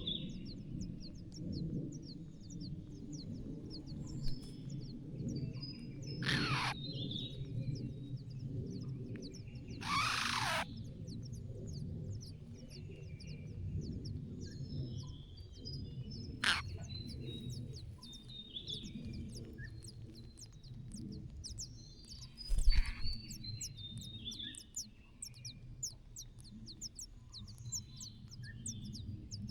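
Small birds chirping: rapid short high chirps, several a second, over a steady low rumble. There are a few brief rustling swishes and a sharp thump about two-thirds of the way in.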